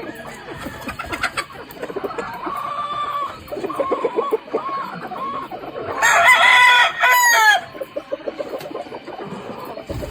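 Gamefowl chickens clucking and calling throughout, with a loud rooster crow about six seconds in that lasts about a second and a half.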